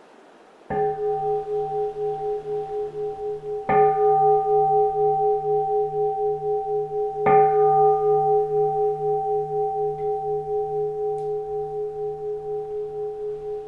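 Keisu, a Japanese Zen temple bowl bell, struck three times about three seconds apart, each strike ringing on in a slowly wavering hum that fades gradually.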